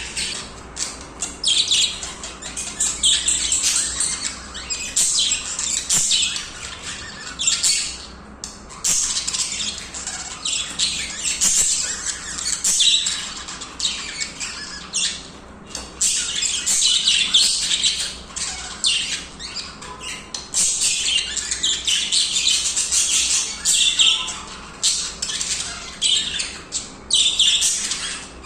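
Budgies singing and chirping continuously, many short high calls overlapping, with only brief pauses.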